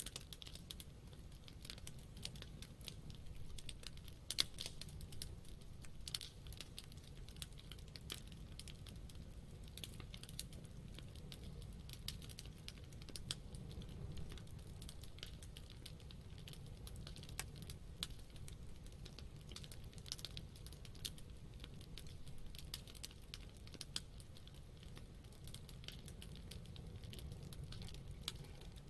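Campfire of burning wood crackling, with irregular small sharp pops and snaps over a low steady rumble of the flames.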